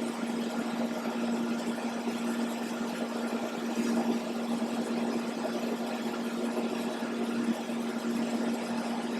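TIG welding arc running on carbon steel under argon shielding gas: a steady hiss over a constant low hum.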